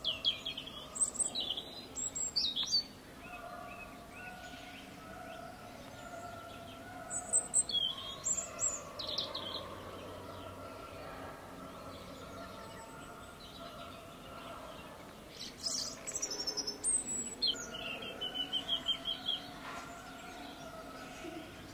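Small birds chirping and twittering in quick high notes and short falling whistles. They come in three bursts: at the start, again about seven seconds in, and again from about fifteen seconds. A steady low hum runs underneath.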